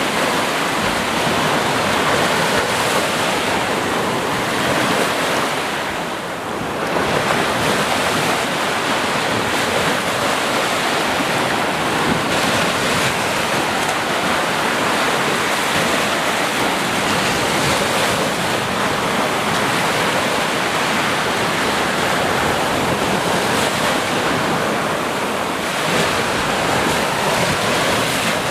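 Ocean waves breaking and washing on the shore in a steady roar of surf, easing briefly about six seconds in before the next wave surges back.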